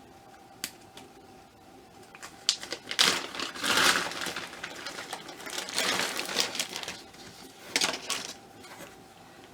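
Packaging being handled and opened by hand: scattered light clicks and taps, then several bursts of rustling, the loudest about three to four seconds in.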